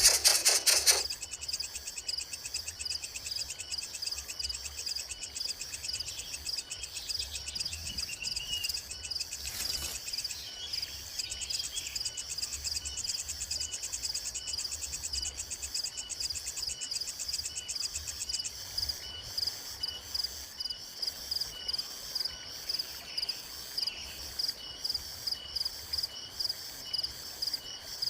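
Insects chirring steadily in a dense, fast-pulsing high trill, with a second insect ticking at an even pace of under two a second through the second half. A short loud noise sounds in the first second.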